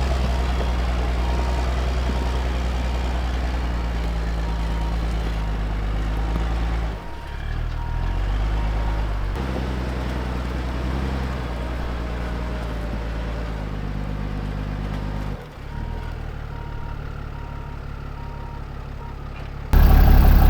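Ram 5500 wrecker's Cummins diesel engine pulling slowly over rough off-road ground, its note shifting several times as the throttle changes, and suddenly louder near the end.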